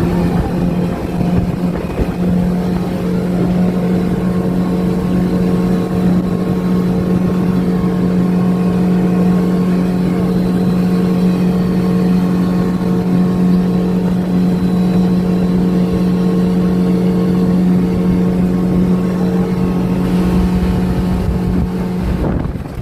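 Motorboat engine running at a steady high speed, one constant drone, with the rush of wind and water under it; it drops away near the end.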